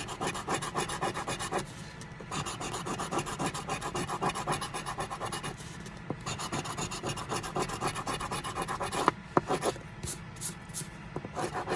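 Scratch-off lottery ticket being scratched: rapid scraping strokes across the coating in runs of a few seconds with short pauses between, and a few sharp clicks near the end.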